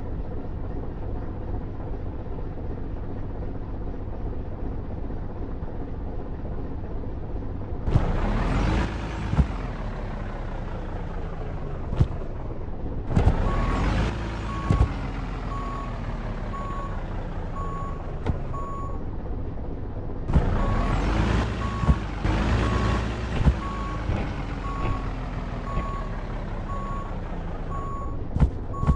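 A truck engine runs with a steady low rumble. Three times it swells louder, each time rising and then falling away in pitch. From about halfway through, a short electronic beep repeats at about one and a half beeps a second.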